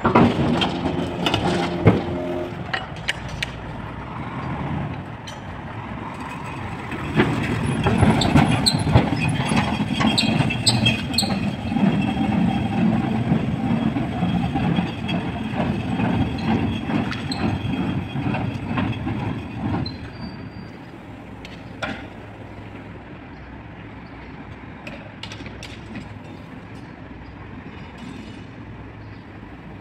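Garbage truck loading refuse: knocks and clanks, then a louder mechanical working stretch, after which, about twenty seconds in, the sound drops to a quieter steady hum of the truck running.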